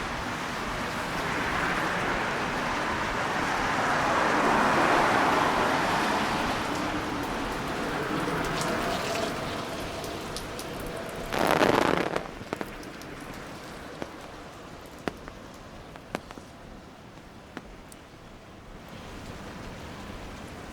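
Street noise on wet pavement after rain: the hiss of tyres on the wet road swells over several seconds and fades away, then a short, louder whoosh passes about halfway through. After that, scattered sharp ticks of dripping water sound over a quieter wet hiss.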